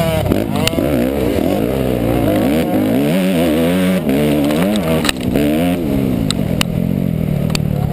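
Motocross dirt bike engine revving up and down over and over as it is ridden around the track, the pitch climbing and dropping every second or so, with a few sharp knocks.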